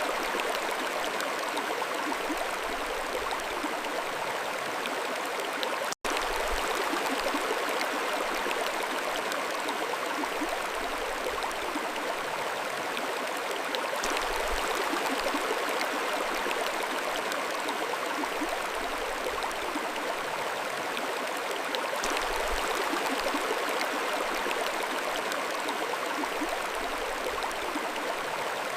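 Mountain stream flowing: a steady, even rush of water over stones. The sound cuts out for an instant about six seconds in.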